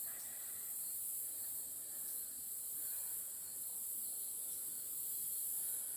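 Steady high-pitched insect chorus droning evenly, with no other sound standing out.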